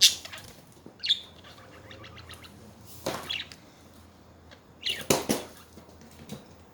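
Pet budgerigars chirping in short bursts, with a few brief noisy rustles or flaps among them, the loudest at the start and about five seconds in.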